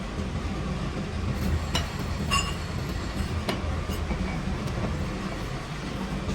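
Workshop machinery running with a steady low hum, with a few sharp metal clinks that ring briefly, about two and three and a half seconds in.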